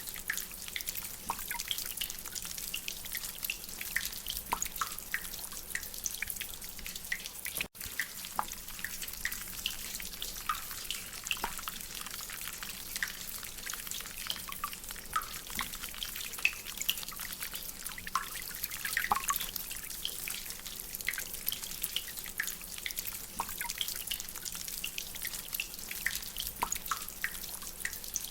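Rainwater dripping from a drainpipe: many irregular, short, pitched drips over a steady hiss of rain. The sound cuts out for an instant about eight seconds in.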